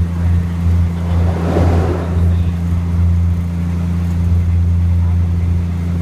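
Running noise of a moving passenger train heard from inside the carriage through an open window: a steady low drone, with a brief rush of noise about a second and a half in.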